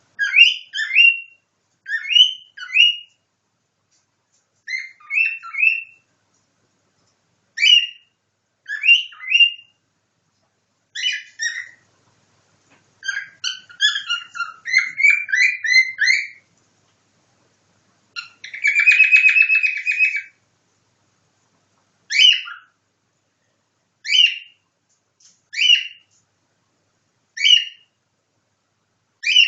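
Cockatiel whistling and chirping in imitation of nightingale song: short chirped phrases every second or two, a quick run of notes near the middle, and a buzzy, rattling trill about two-thirds of the way through.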